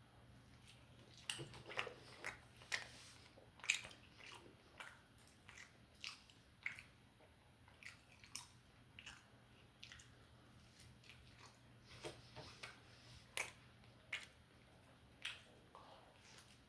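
A person biting and chewing food, heard as an irregular string of short, sharp mouth clicks, the loudest about four seconds in.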